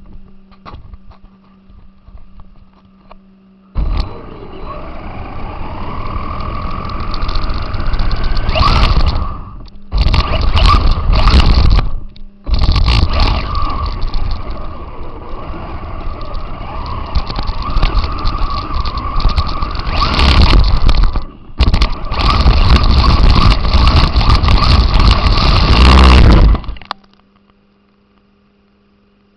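Radio-controlled car driving, its motor whining and rising in pitch as it speeds up over a loud rumbling rattle of drivetrain and tyres. It comes in four throttle runs starting about four seconds in and stops a couple of seconds before the end. A steady low electrical hum runs underneath.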